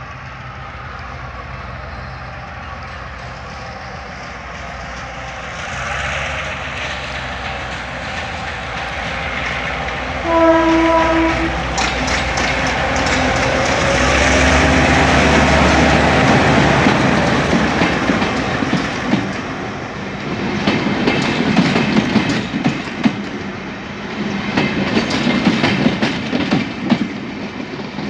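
G22 diesel-electric locomotive pulling out and getting louder as it comes closer, its engine working under load. It gives one short horn blast about ten seconds in. From about twenty seconds in, the wheels clatter quickly over the rail joints as the train passes.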